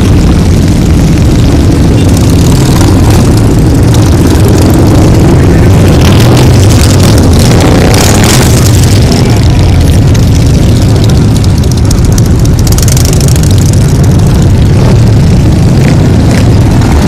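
Many motorcycle engines roaring together, a loud continuous sound that keeps the recording near full level.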